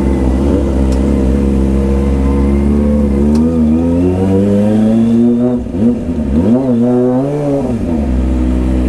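Kawasaki ZX-25R's 250 cc inline-four engine running, its pitch climbing steadily for a couple of seconds and then dropping off. Two quick revs rise and fall before it settles back to a steady low note.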